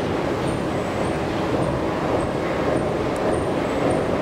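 Steady low rumble of a metro train running through the station.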